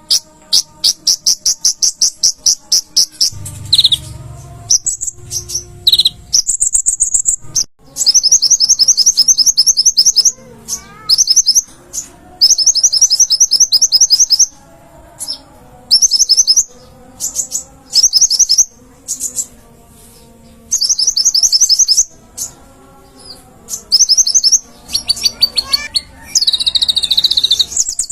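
A konin (kolibri ninja) sunbird singing vigorously. It delivers repeated bursts of very fast, high-pitched trilling notes, each burst a second or two long, with short pauses between them.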